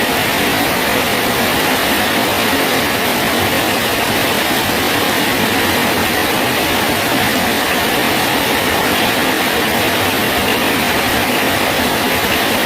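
Steady heavy rain falling on a bridge, an even, unbroken hiss.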